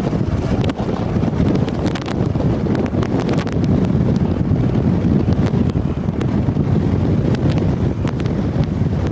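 Strong wind buffeting the microphone: a loud, dense low rumble with scattered sharp ticks.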